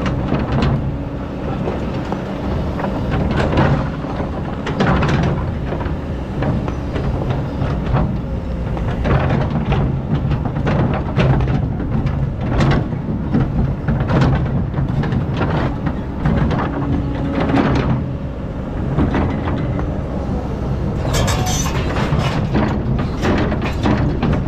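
Excavator's diesel engine running steadily while its bucket digs into hard-packed sand, with repeated clanks and scrapes of steel on compacted ground; a burst of sharper clanks near the end.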